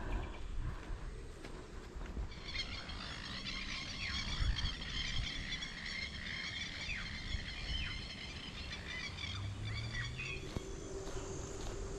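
A flock of birds calling together: a dense chorus of many short chirps and whistles that sets in about two seconds in and carries on, over a low rumble.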